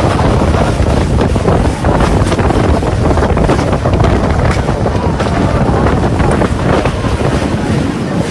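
Strong storm wind blowing hard against the microphone: a loud, steady rush of noise that is heaviest in the low end.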